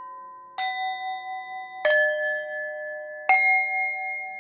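Bell-like chime tones struck one at a time, three strikes about a second and a half apart, each a different pitch and ringing on until the next.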